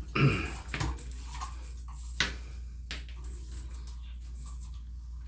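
A few sharp clicks and knocks from small plumbing parts being handled and fitted, one about two seconds in and another about three seconds in, over a steady low hum. A short louder sound comes just after the start.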